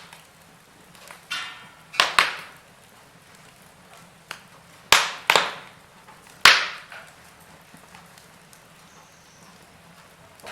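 Wood fire in a fireplace crackling, with a run of sharp pops over the first seven seconds or so, the loudest about five and six and a half seconds in, then only a faint crackle.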